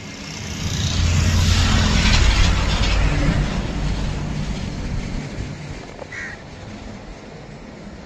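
A train passing by on the track: a low rumble and rushing noise swell about a second in, then slowly fade.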